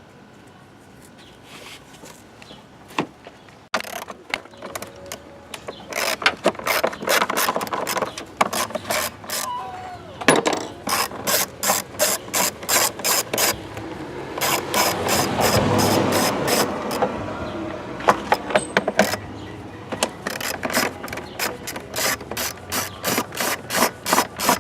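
Hand ratchet wrench clicking in quick, even strokes as a bolt is worked on the engine, starting about four seconds in and running on, with a busier, louder stretch around the middle.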